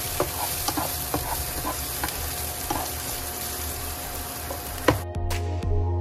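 Minced garlic sizzling in hot oil in a nonstick pan while a spatula stirs it, with light scraping and tapping knocks. About five seconds in, the sizzle stops suddenly.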